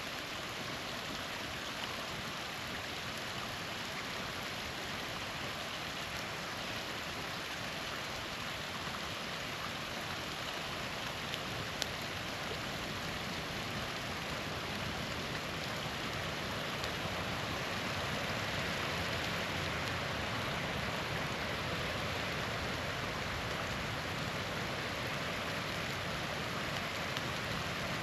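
Small waterfall splashing steadily, a constant rushing hiss of falling water, growing slightly louder past the middle. A single sharp campfire crackle pops out near the middle.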